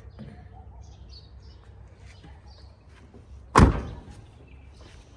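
A car door slamming shut once, about three and a half seconds in, with a short ringing tail. Faint bird chirps are heard in the background.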